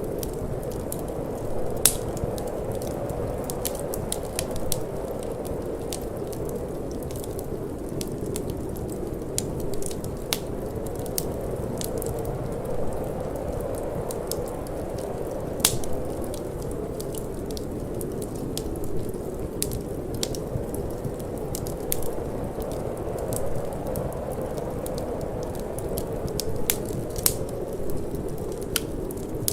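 Wood fire crackling in a fireplace, with irregular sharp pops and snaps, the loudest about two seconds in and again about halfway through, over a steady low rushing of cold wind.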